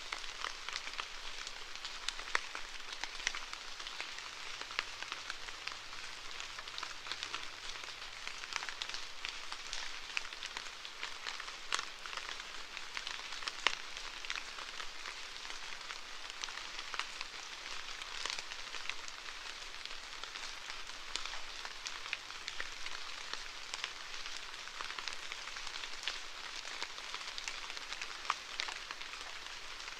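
Steady rainfall, with many individual raindrops ticking sharply among the even hiss of the rain.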